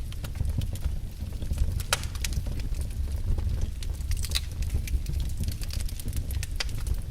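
Firewood burning in a fireplace: irregular sharp crackles and pops over a steady low rumble.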